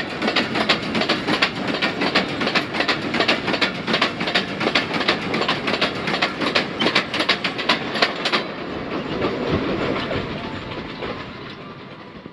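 Loaded freight train's wagons rolling past close by, steel wheels clicking rapidly over the rail joints over a steady rumble. About eight seconds in the clicking stops as the last wagon passes, and the rumble fades as the train moves away.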